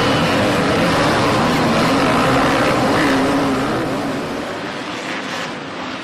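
A motor vehicle's engine running loudly, with a wavering pitch, then fading noticeably about four seconds in.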